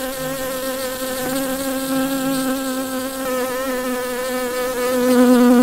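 A bee buzzing: one continuous drone with a slightly wavering pitch, growing a little louder and dropping in pitch near the end.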